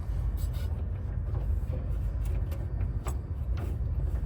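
Light scattered clicks and taps of a metal lock linkage rod being fitted back into a van's side door mechanism, over a steady low rumble.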